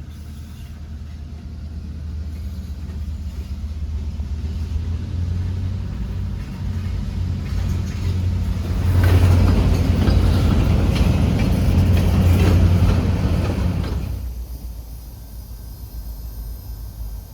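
Train passing a road crossing: a low diesel rumble builds, is loudest from about nine seconds in with a rapid clatter of wheels over the rails, then drops away sharply about 14 seconds in.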